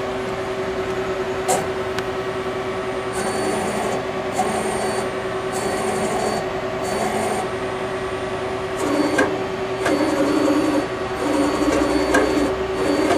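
Citizen CNC Swiss-type lathe running through its axis moves: a steady hum with short servo tones that start and stop every second or so, and one click about a second and a half in. The axis motion is quiet.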